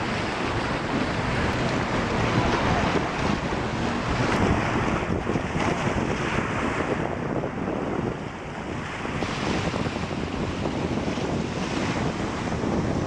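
Wind buffeting the microphone and rushing water on a jet ski ride at speed.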